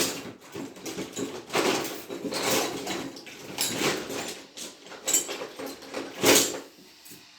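Rummaging through things by hand: hard objects clattering and scraping in an irregular run, with a louder knock about six seconds in.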